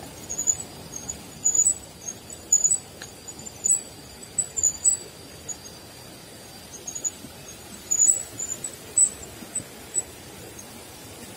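Birds chirping in short, irregular clusters of high calls over a steady rushing background noise. A faint steady high tone fades out about halfway through.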